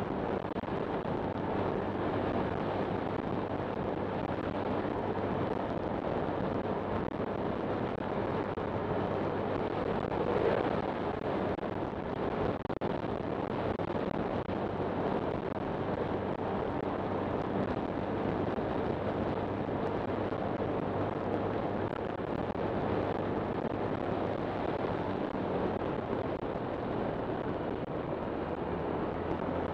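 Honda Click 125 scooter's single-cylinder engine running steadily at cruising speed, with wind noise on the microphone; it swells briefly about ten seconds in.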